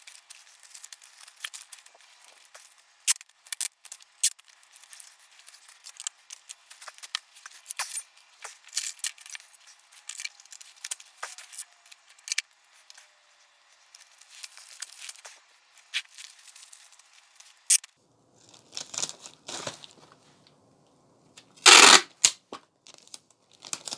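Handling noise: a dense run of sharp crackles and clicks, then a few louder rustling bursts near the end, the loudest about 22 seconds in.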